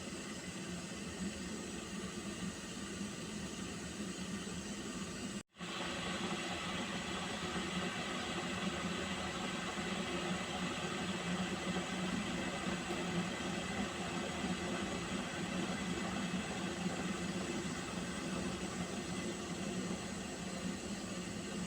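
Water heating in a pot, giving a steady hiss, cut off for an instant about five and a half seconds in and then continuing slightly louder.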